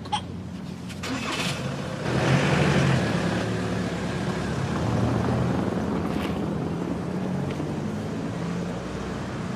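Taxi cab's engine running as it pulls away, louder from about two seconds in and then steady.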